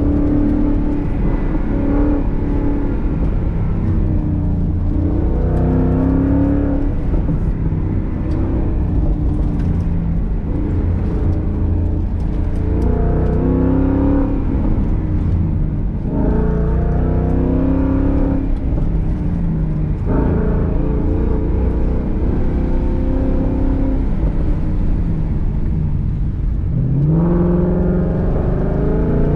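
Ford Mustang engine under hard autocross driving, revving up repeatedly and dropping back as the throttle is lifted and reapplied between corners, over a steady low rumble of road and tyre noise.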